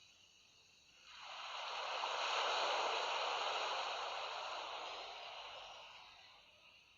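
A sea wave washing in: a rushing hiss that swells up about a second in, then slowly fades away over several seconds.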